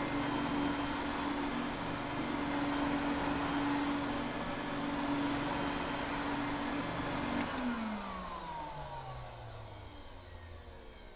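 Vacuum cleaner motor running with a steady whir and hiss. About seven and a half seconds in it clicks off and the motor winds down, its pitch falling as the sound fades.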